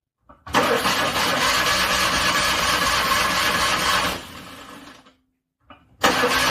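Car starter cranking a cold engine for about three and a half seconds without it catching, then winding down and stopping. A second cranking attempt begins near the end.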